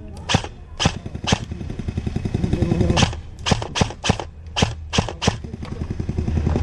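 Airsoft guns firing single shots: three spaced about half a second apart, then after a short pause a quicker string of about nine shots.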